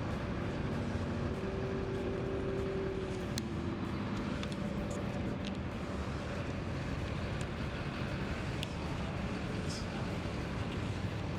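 Steady street traffic: vehicle engines running and tyre noise on the road, with a held engine tone for a few seconds near the start.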